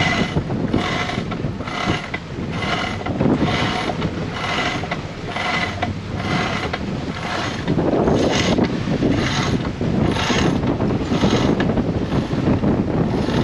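A sailboat winch being cranked, its pawls ratcheting in a steady rhythm of about one and a half strokes a second that stops near the end, over wind noise.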